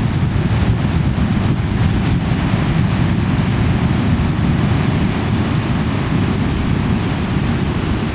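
Big ocean waves crashing and surf rushing, steady and loud, with wind buffeting the microphone.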